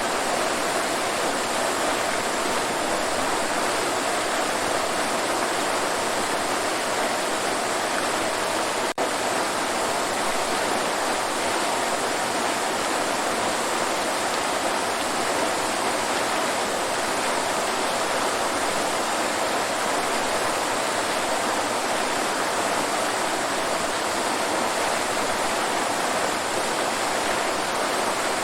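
Waterfall: water falling and rushing in a steady, even hiss, with a momentary drop in the sound about nine seconds in.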